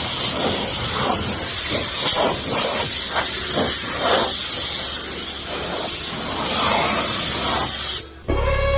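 Steady, loud spraying hiss that cuts off abruptly about eight seconds in, where music begins.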